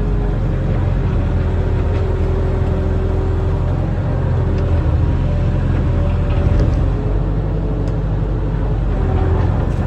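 Barge-mounted excavator's diesel engine running steadily under load, a deep rumble with short higher tones coming and going.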